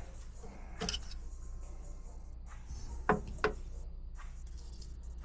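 A few hard knocks from parts being handled: a light one about a second in, then two sharper ones close together about three seconds in, over a steady low hum.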